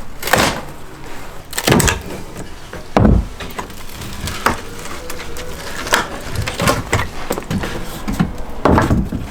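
Old wooden floorboards of a traditional Korean hall floor being knocked and torn loose: irregular, sharp wooden knocks and clatters, about seven in a few seconds.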